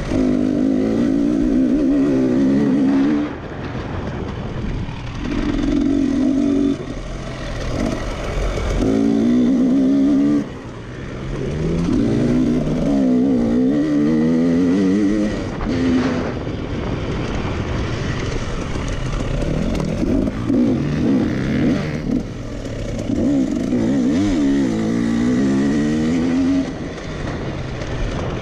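Racing tractor engine running hard, its pitch rising and falling over and over as it accelerates and backs off. The loudness drops suddenly several times as the throttle is lifted.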